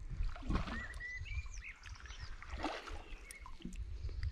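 A small bird calling with short whistled chirps that glide up and down, mostly in the first two seconds and again briefly near the end, over a low rumble and a few soft knocks.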